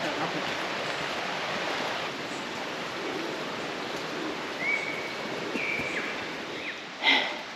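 Steady rushing outdoor noise along a forest hiking track. A bird gives two short, level whistled notes about five seconds in, and a sudden loud breathy puff comes near the end.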